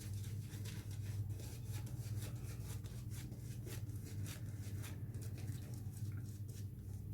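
Synthetic-knot shaving brush working lather, a quick irregular run of soft wet crackling strokes over a steady low hum.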